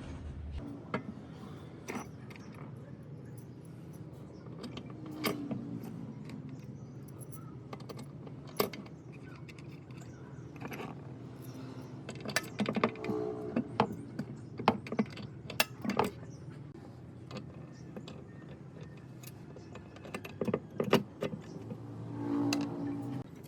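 Metal parts and tools clinking and knocking against each other as they are handled, in irregular sharp taps with short metallic rings, busiest in the middle and again near the end.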